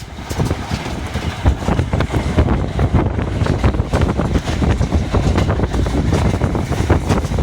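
A train in motion: a continuous loud rumble with a dense rattle and clatter of the carriage and wheels on the rails.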